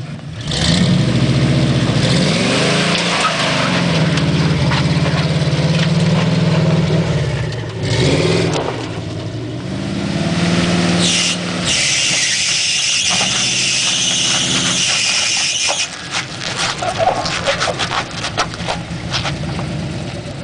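Chevrolet Blazer 4x4's engine revving up and down as it drives off-road. About twelve seconds in, a loud rushing hiss lasts about four seconds, followed by scattered knocks and clatter.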